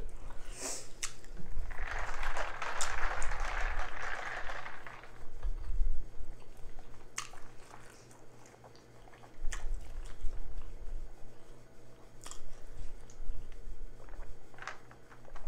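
Chewing and wet mouth clicks close to the microphone, with a soft hiss for about three seconds near the start and a few sharp clicks later on; near the end, a sip through a tumbler straw.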